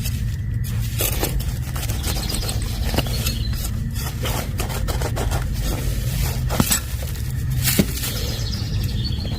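Shovel scraping and cutting into soft, damp garden soil in a run of short strokes, with a few sharper clinks, over a steady low rumble.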